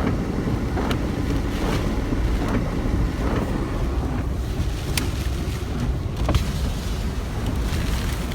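Strong hurricane wind buffeting the microphone in a steady low rumble, with a few sharp ticks scattered through it.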